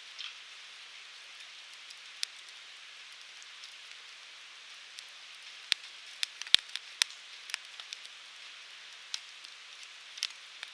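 Firewood burning in a campfire grill: a steady soft hiss with scattered sharp crackles and pops, most of them clustered about six to seven seconds in.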